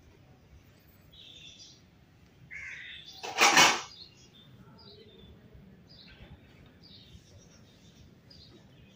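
Birds chirping on and off, with a loud half-second burst of noise about three and a half seconds in.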